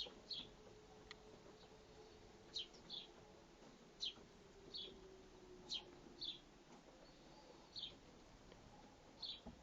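Sparrows chirping: short, high chirps coming about once a second, often two close together.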